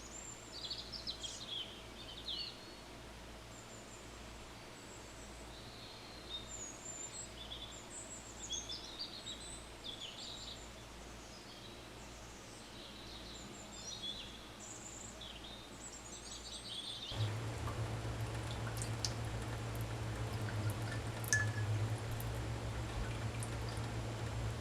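Small birds chirping and twittering in short scattered calls over a faint steady background. About two-thirds of the way through, the birdsong stops abruptly and gives way to a steady low hum with hiss and a few small clicks.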